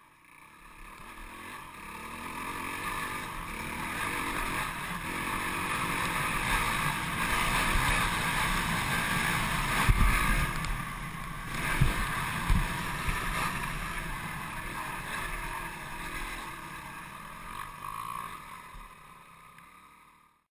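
Dirt bike engine growing louder as it approaches, loudest about halfway through, then fading away as it moves off. A few sharp thumps sound about ten to twelve seconds in.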